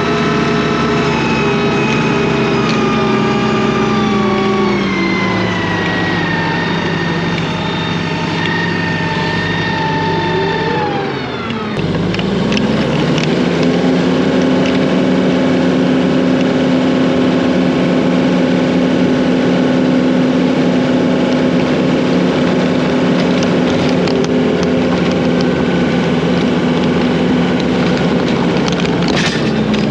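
Diesel engine of a farm machine clearing snow, running hard: its pitch sags over the first few seconds, dips sharply and climbs back about twelve seconds in, then holds steady at a higher speed.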